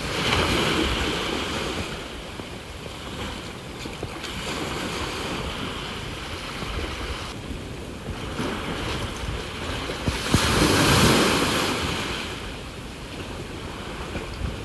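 Ocean waves breaking and washing on the shore in repeated swells, the largest about ten seconds in.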